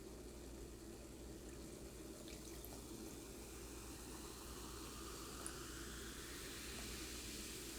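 Faint liquid pouring into a container, with a tone that rises as it fills.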